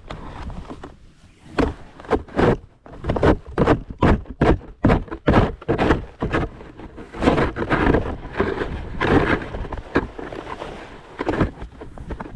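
Snow shovel working a driveway: a quick, uneven run of short scrapes and knocks, with longer scrapes from about seven to nine seconds in.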